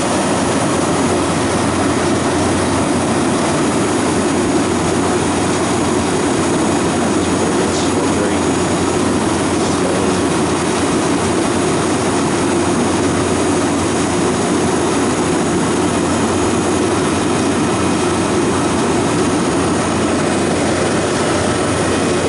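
Refrigeration condensing unit running steadily, compressor and condenser fan, while the system is being charged with refrigerant after a valve plate and drier filter replacement.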